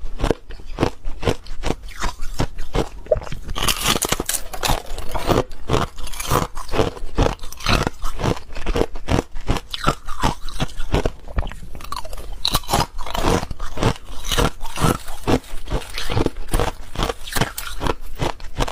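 Coloured ice being bitten and chewed close to the microphone: a continuous run of crisp, rapid crunches.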